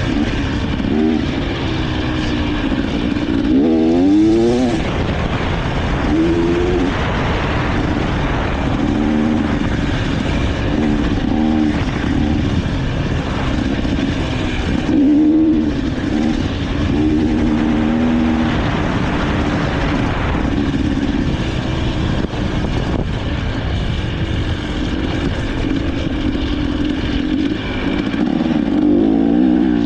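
Dirt bike engine being ridden, its pitch rising and falling again and again as the throttle opens and closes.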